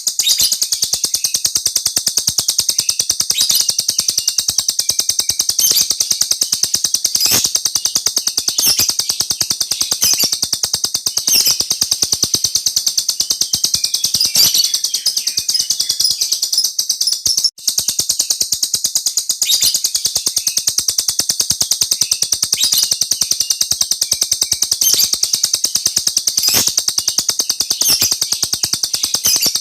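Lovebird singing a long, continuous rolling chatter of fast, high chirps with hardly a pause. There is one brief break a little past halfway, after which it carries on.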